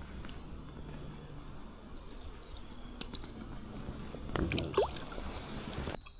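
Water splashing and sloshing close by in a creek, with a louder burst of splashing a little past four seconds in. The sound cuts off abruptly just before the end.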